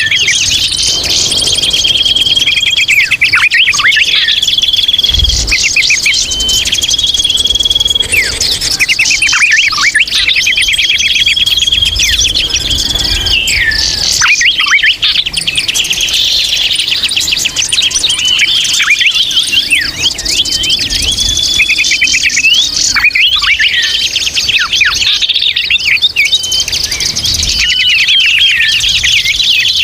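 Noisy chatter of small birds: dense, rapid twittering and chirping, broken every few seconds by a held high whistle, as used for a bird-lure (pikat) recording.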